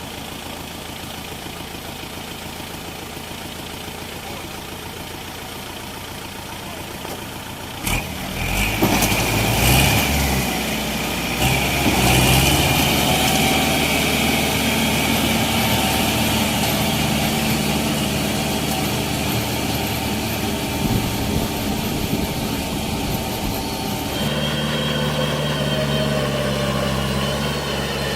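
Kubota L5018 tractor's diesel engine running steadily, then about eight seconds in it suddenly gets louder, with the pitch shifting as it revs up, and it keeps running hard after that.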